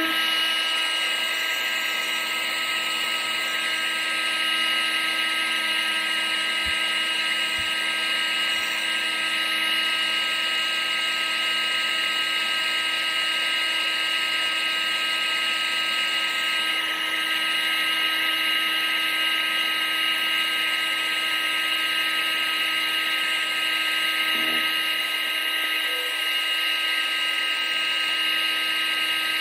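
Vacuum cleaner running steadily: a continuous motor whine with several held tones over a rush of air.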